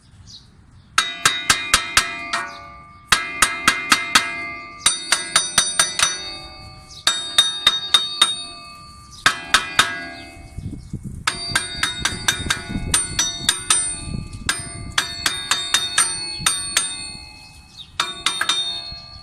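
Hammer striking steel in quick runs of several ringing blows, about four a second, with short pauses between runs: beating on a front wheel hub assembly to drive it out of the steering knuckle.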